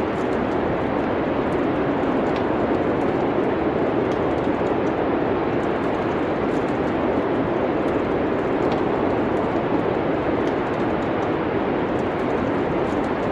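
Steady rushing wind of a winter snowstorm, even and unbroken, with the faint scattered crackle of a wood fire in a fireplace.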